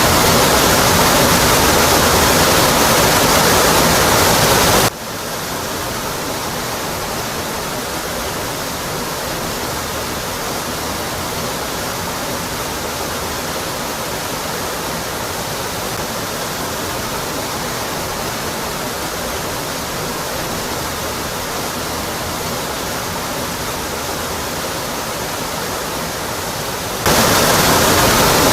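Rocky Brook Falls pouring in a steady, even rush of falling water. About five seconds in, the rush drops abruptly to a quieter, thinner level, and it jumps back to full strength shortly before the end.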